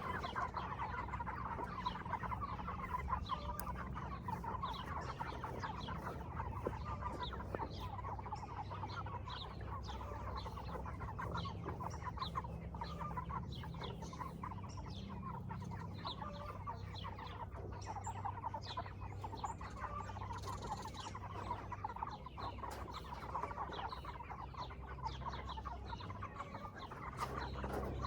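A flock of Cornish Cross broiler chickens clucking and peeping, many short calls overlapping and running on without a break.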